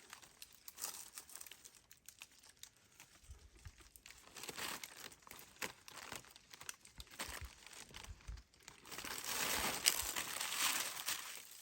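Dry leaves and twigs rustling and crackling in irregular bursts as they are handled or stepped on, busiest near the end.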